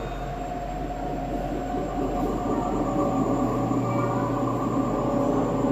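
A steady mechanical droning hum with several held tones, getting a little louder about two seconds in.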